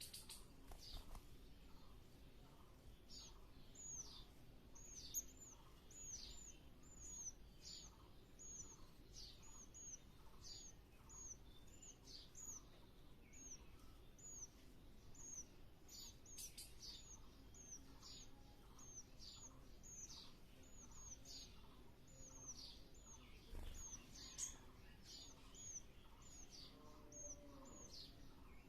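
A bird chirping steadily: faint, short, high chirps repeated about two a second.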